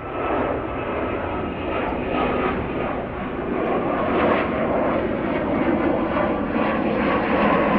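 Jet airliner taking off, a steady engine rush that grows louder toward the end.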